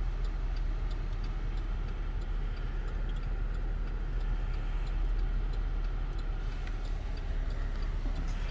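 Road and engine noise inside a moving car's cabin, a steady low rumble, with a faint, regular ticking over it.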